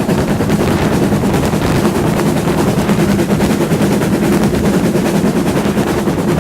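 Steam-hauled heritage train running steadily: a loud continuous rumble with a fast, even rattle.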